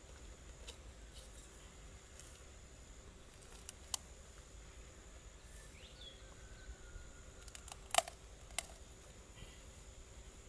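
A few scattered sharp clicks, the loudest about eight seconds in, over a faint steady hum.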